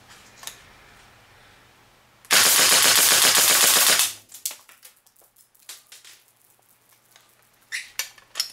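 Stock WE AK-74 gas blowback airsoft rifle, running on compressed air from an air compressor, firing one full-auto burst of about a second and a half, a rapid stream of shots in a rate-of-fire test. A few small handling clicks follow near the end.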